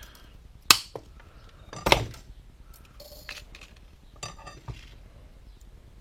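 Sharp metallic clinks and knocks of small steel parts and tools being handled and set down on a workbench: two loud strikes in the first two seconds, then several lighter clinks.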